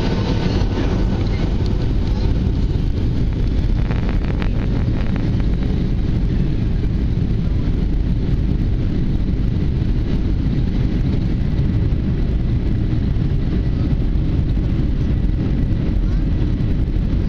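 Boeing 737 cabin noise: the jet engines and rushing air heard from inside the cabin as a steady low rumble that holds an even level throughout.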